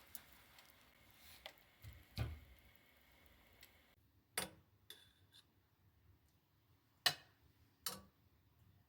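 A handful of sharp clicks and knocks at uneven intervals, the loudest about seven seconds in, over faint room tone.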